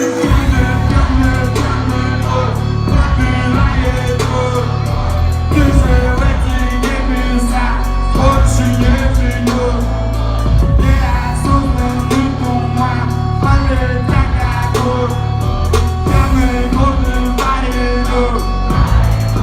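Live concert music: a full band plays an instrumental stretch of the song with a heavy bass line, a steady drum beat and guitar. The bass and drums come in together right at the start.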